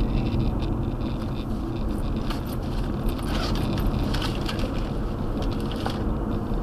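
Steady road and engine rumble of a moving car, heard from inside, with light rattling from about two to six seconds in.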